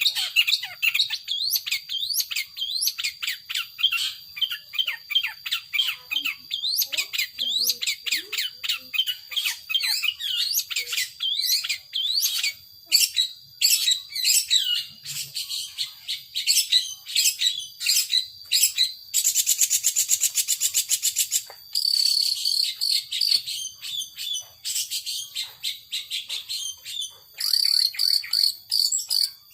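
Long-tailed shrike (cendet) singing a rapid, varied song of short rising chirps, broken by a fast, harsh rattle about two-thirds of the way through and a few held high notes near the end.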